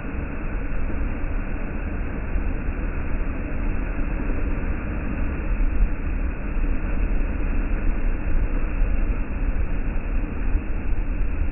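Sea breeze buffeting the microphone: a steady, low rushing rumble that never lets up.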